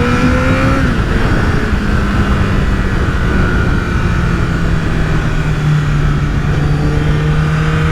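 Honda CBR1000RR Fireblade's 998 cc inline-four engine, fitted with a Leovince exhaust, pulling with a rising note for just under a second. The pitch then drops and the engine settles into a steady cruise, with wind rush over the microphone.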